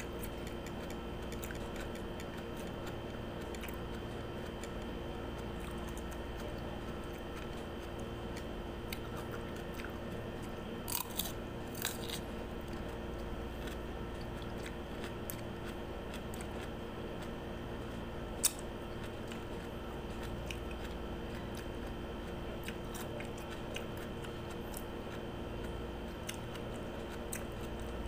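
Crunching and chewing of raw cucumber, bitten from a hand-held piece, with small clicks throughout and a few sharper crunches about eleven seconds in and once more near eighteen seconds. A steady electrical hum runs underneath.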